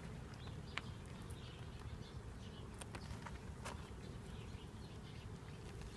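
Honey bees buzzing around an opened hive: a steady, faint hum, with a few light clicks scattered through it.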